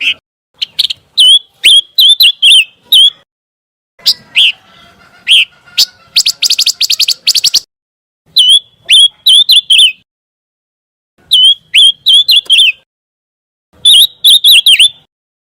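Song of the bird Indonesian keepers call pancawarna: loud phrases of short, sharp, looping chirps separated by brief pauses, with a rapid trill about six seconds in.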